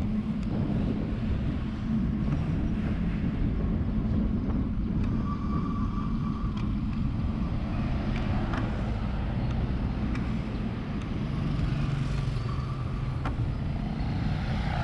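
Road traffic: a motor vehicle's engine running steadily, with road and wind noise, and a brief higher tone about five seconds in.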